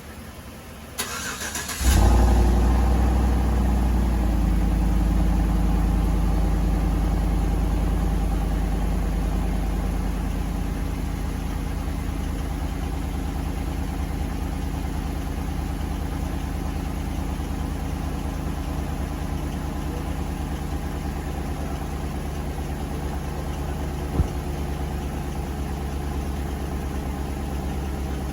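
A car engine cranks briefly and starts about two seconds in, running at a fast idle that settles down over the next several seconds into a steady idle. A single sharp click comes near the end.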